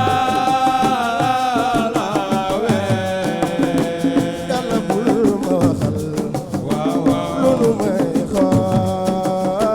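Assiko band music: steady drum beats under a held, wavering melodic line.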